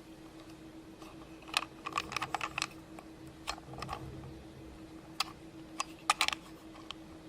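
Scattered light clicks and taps of small hard objects being handled, some in quick clusters, over a steady low hum.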